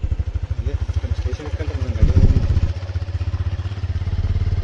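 Vehicle engine running at low road speed with a steady, fast pulsing beat, louder for a moment about two seconds in.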